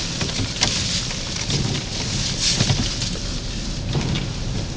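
Truck driving slowly, heard from inside the cab: a steady low rumble with road noise and a few irregular knocks and rattles.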